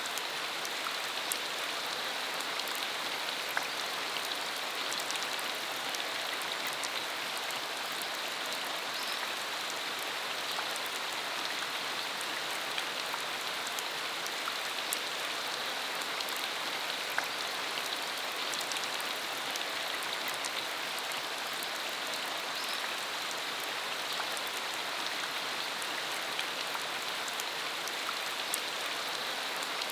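Steady rain falling: a continuous even hiss with many scattered sharp drop ticks, unchanging throughout.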